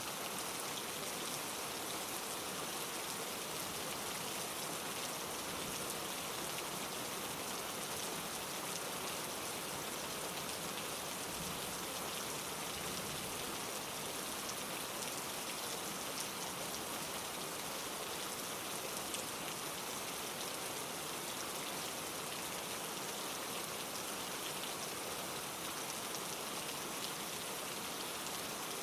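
Steady rain falling, with raindrops pattering on leaves.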